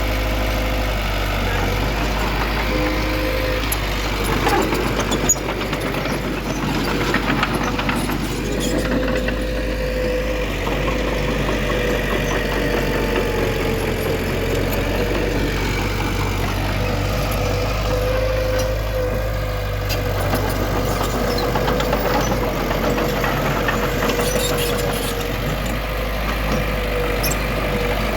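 Diesel engine of heavy earthmoving machinery running steadily, with a steady whine that wavers slightly in pitch and a few faint clicks.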